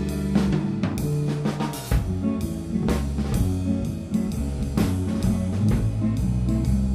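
Instrumental band playing with no vocals: guitar, bass and drum kit, with steady low bass notes under regular drum hits.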